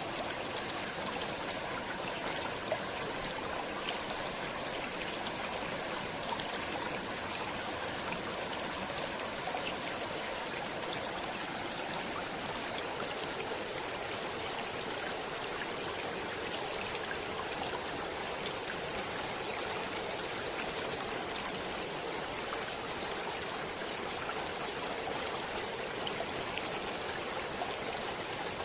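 Running water flowing steadily, a continuous rush with many small splashes and trickles through it.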